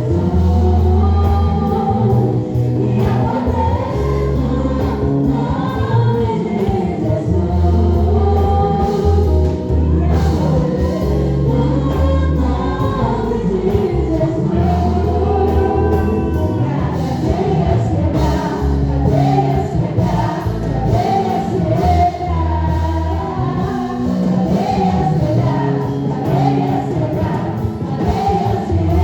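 Gospel praise song: a group of voices singing over band accompaniment, with sustained bass notes underneath.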